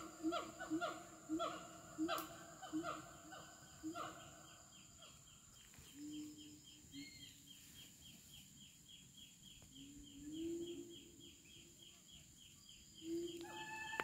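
Birds calling in fast runs of short repeated notes, about four a second. A fuller series fades out about four seconds in, a thin, high ticking series carries on, and a new stronger series starts near the end.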